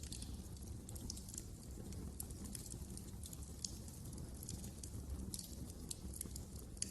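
Fireplace fire crackling: irregular sharp snaps and pops over a steady low rumble of burning, with one louder pop near the end.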